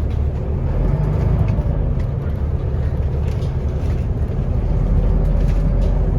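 Scania L94UB city bus under way, its diesel engine giving a steady low drone heard from inside the passenger cabin. The drone grows a little louder in the second half.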